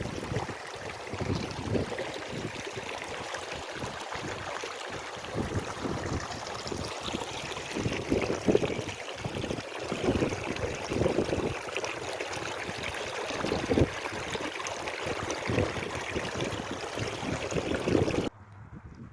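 Steady rush of running water, like a stream, with irregular low buffeting on the microphone; it cuts off suddenly near the end.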